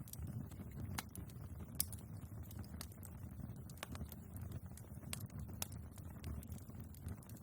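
Wood fire in a fireplace crackling: sharp, irregular pops and snaps over a low steady rumble of the burning logs, with one louder pop about two seconds in.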